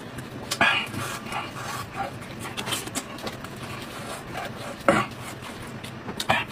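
Close-miked mouth sounds of a man eating cooked sheep's head meat: wet chewing and smacking with small clicks, and a few louder breathy sounds about half a second in, near five seconds and near the end.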